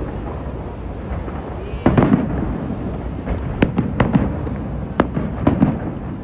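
Aerial fireworks bursting: several sharp bangs, about a second apart, over a continuous low rumble and crackle.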